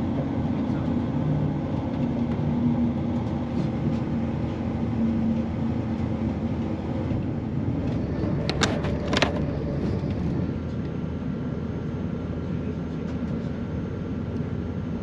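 Inside a moving CrossCountry Voyager diesel train: the steady rumble of its underfloor diesel engine and running gear. Two sharp clicks come a little past halfway, and the rumble eases slightly about two-thirds of the way through.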